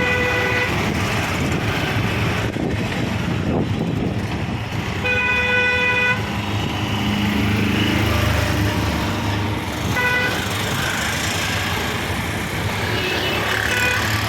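Vehicle horn tooting a few times, short toots with one about a second long in the middle, over a steady low engine rumble and traffic noise.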